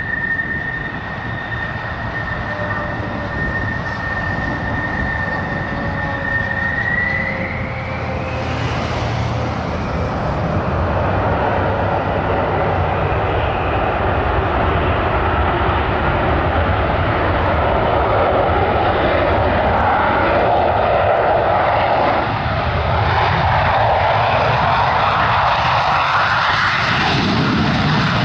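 F-16 fighter's jet engine: a steady high whine that rises in pitch about seven seconds in, then a loud rushing jet noise that builds and holds, as the engine spools up to high power.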